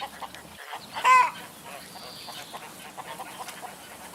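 A single short honking call from a goose or duck-type waterfowl, about a second in, over faint background ambience.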